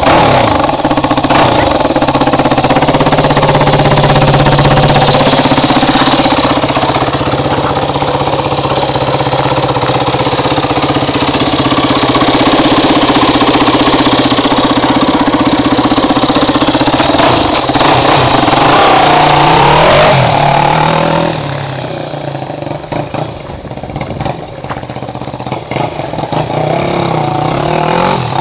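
Yamaha WR250F single-cylinder four-stroke running loud through an aftermarket Higashi exhaust, revving up and down with a rising rev at about 18–20 seconds in. About 21 seconds in it drops much quieter, then picks up again near the end.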